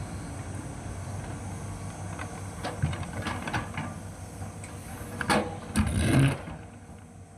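Hitachi excavator's diesel engine running steadily, with a series of short knocks and then two loud clattering scrapes about five to six seconds in, after which the sound drops away.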